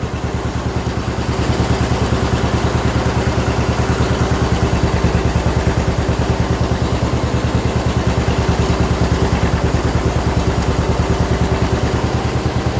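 A 620 tractor's engine running with a fast, even pulse, shortly after a cold start; it picks up a little about a second and a half in.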